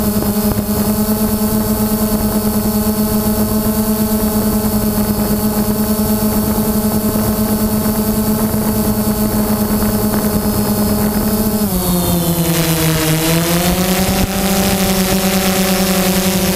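Drone propellers and motors running with a steady buzzing hum. The pitch drops briefly about twelve seconds in and climbs back a couple of seconds later as the motors slow and speed up again.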